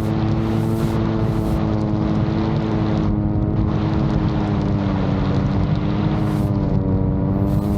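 Innovtol-3 VTOL drone's propellers running steadily, a stack of tones that wavers slightly in pitch as the motors adjust, under gusty wind noise.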